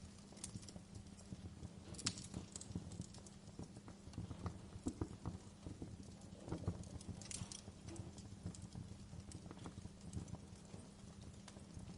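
Wood fire burning in a fireplace: a steady low rumble with irregular crackles and sharp pops, two louder pops about two seconds in and near the middle.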